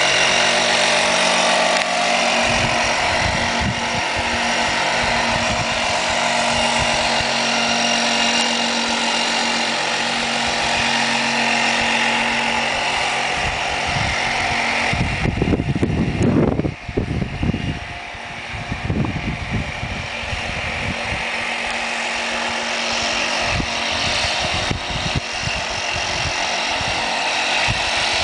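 Remote-controlled model fishing boat's motor running steadily with a high whine, with heavy low rumbling for a few seconds about halfway through.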